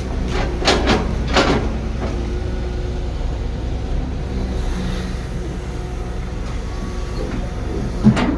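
Heavy diesel construction machinery running with a steady low rumble, with a few short sharp clanks: twice about a second in, and once near the end.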